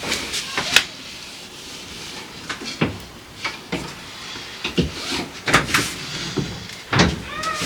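Irregular knocks and clunks of food containers being moved and set down on refrigerator shelves, the loudest a little past halfway and near the end, with a brief squeak just before the end.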